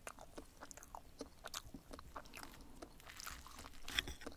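Close-up chewing of soft souffle omelette: irregular small wet mouth clicks. A brighter clink of the knife and fork against the plate comes about four seconds in.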